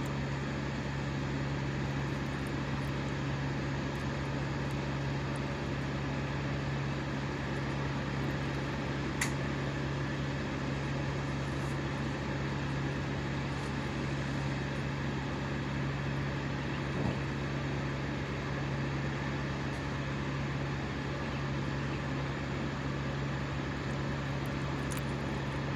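An engine running steadily at high speed: a constant drone with a strong, even low hum that does not change pitch. A single sharp click sounds about nine seconds in.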